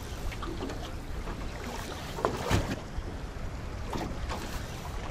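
Strong wind buffeting the microphone on an open boat, with waves hitting the hull a few times, the loudest hit about two and a half seconds in.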